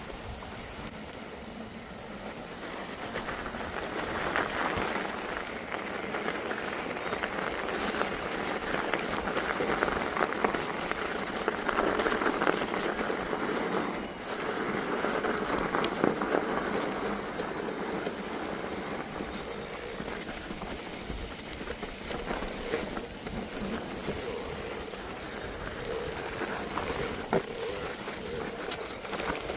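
Steady rolling noise of a bicycle ride over a snowy mountain trail, swelling and easing, with a few sharp clicks about a second in.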